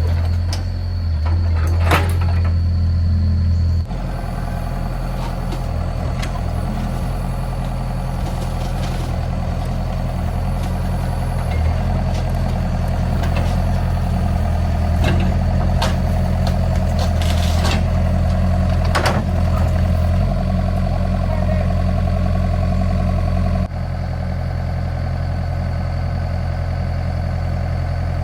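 A heavy construction-machine engine running steadily at low revs, with scattered clicks and knocks over it. The level drops abruptly about four seconds in and again near the end.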